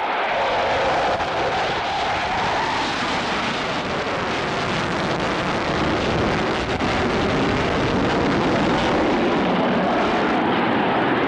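Airplane in flight, its engine noise loud and steady.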